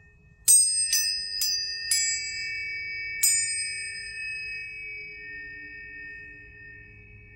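Metal planetary tuning forks struck five times: four strikes about half a second apart, then one more a little over a second later. Each strike gives a sharp metallic clang, leaving several high pure tones ringing together and slowly fading.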